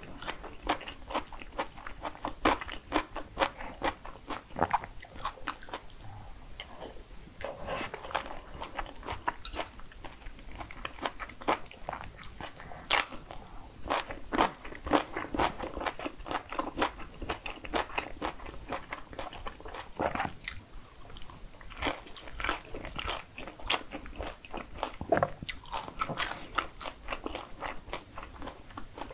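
Close-miked eating sounds: steady chewing with frequent crisp crunches and sharp wet mouth clicks, from a mouthful of jajangmyeon noodles and crispy fried kkanpunggi chicken.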